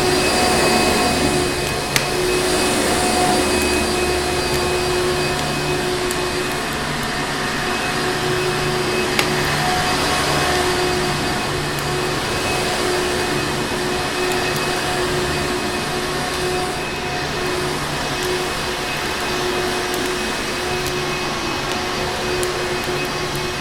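Vacuum cleaner motor running steadily, a continuous whirring hum and airy hiss with a held pitch, under a few faint sharp crackles from a fireplace.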